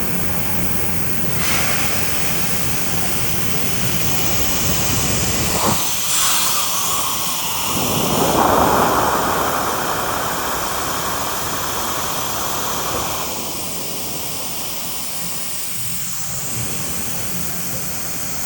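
Mazak Variaxis 730-5X II vertical 5-axis CNC machining center running with a steady hissing noise. The noise swells louder from about eight seconds in, for around five seconds, then settles back slightly.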